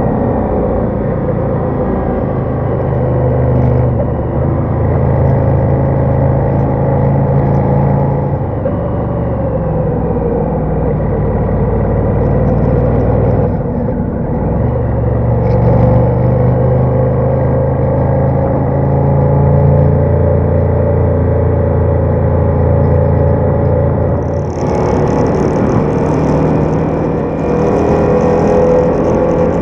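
Ducati Diavel motorcycle engine running, its note rising and falling with the throttle, with a brief drop about halfway through. A hiss joins in near the end.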